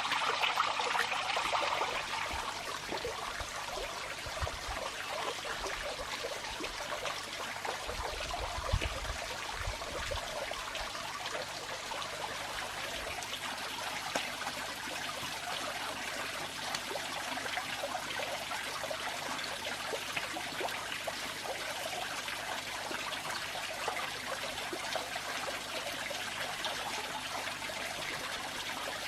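Water running steadily, like a trickle or small stream, with a few brief low thumps about a third of the way in.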